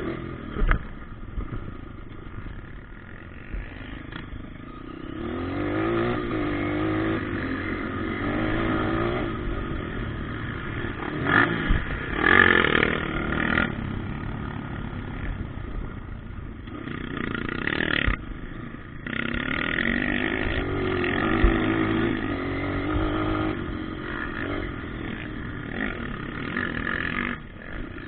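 Motocross bikes running on a dirt track, engine pitch repeatedly rising and falling as riders throttle on and off, with a few short sharp knocks.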